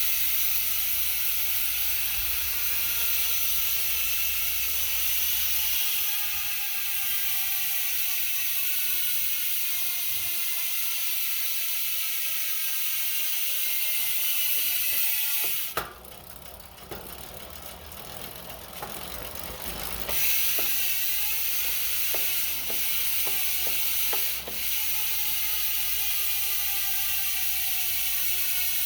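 Spank Hex rear hub freehub ratchet buzzing as the wheel freewheels, its pitch falling slowly as the wheel slows; the hub runs on Dumonde freehub oil instead of grease. About halfway through the buzz stops for a few seconds, with scattered clicks, then comes back and falls in pitch again.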